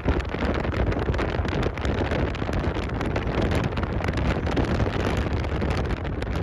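Wind buffeting the microphone: a steady, rough, crackling noise, strongest at the bottom.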